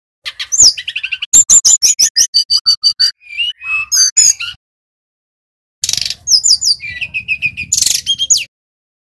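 Brown-chested jungle flycatcher (sikatan rimba dada coklat) singing loudly: two bursts of rapid, high chattering notes and short falling whistles, separated by a pause of about a second.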